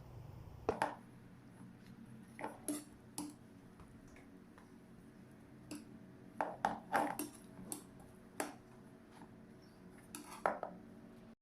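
Kitchen utensils clinking against dishes: scattered light clinks and knocks with pauses between, and a quick cluster of them a little past the middle.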